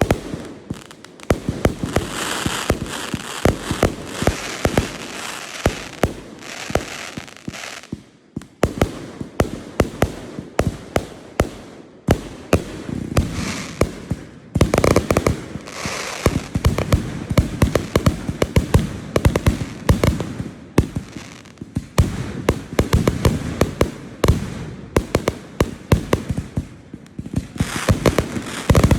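Fireworks display: a dense run of aerial shell bursts and sharp cracks, with stretches of crackling and hissing, easing briefly about eight seconds in before building again.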